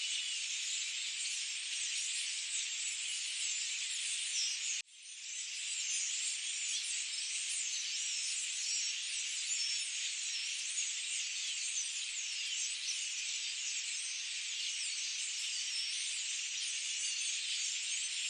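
Dense forest bird chorus: many birds chirping and trilling at once in a continuous high-pitched wash, with nothing low underneath. About five seconds in, the sound cuts out abruptly for an instant and then fades back in.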